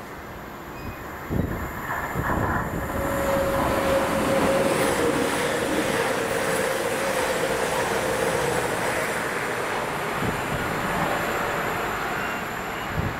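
A train running through the station, its rumble and rail noise building from about a second in and staying loud, with a steady high tone running for several seconds in the middle.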